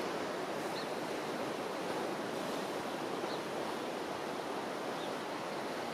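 Ocean surf: a steady, even rush of waves.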